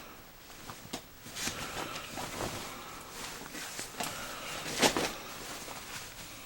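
Cargo pants being handled: fabric rustling with scattered clicks, and a louder knock about five seconds in.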